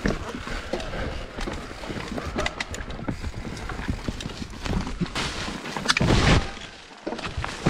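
Mountain bike riding down a dry dirt trail: tyres rolling on the dirt, with a run of quick rattles and knocks from the bike over bumps and a rush of air on the microphone that swells about six seconds in.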